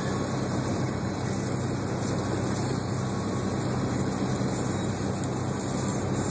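Steady engine and road noise from inside the cabin of a moving vehicle, with a constant low hum and no distinct events.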